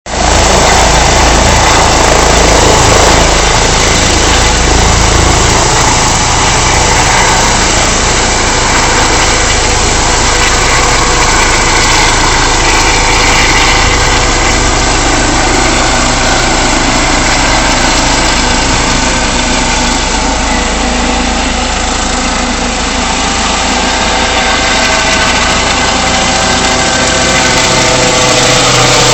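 Ambulance helicopter's turbine engine and rotor running loud and steady.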